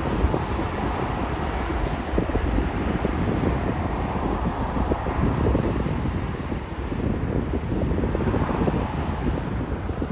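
Wind buffeting the microphone, a steady rushing rumble with flickering gusts.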